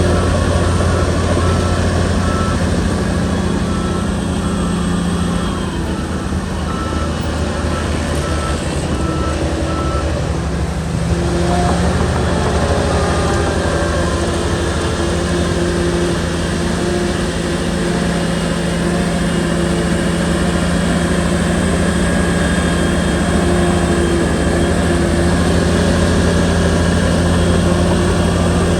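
Shantui bulldozer's diesel engine running steadily under load, with a reversing alarm beeping at a steady pace for the first ten seconds or so.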